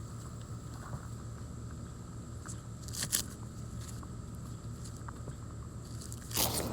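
Corn husks being torn and peeled back from an ear by hand: two brief crackling rips, one about three seconds in and a longer one near the end, over a steady low hum.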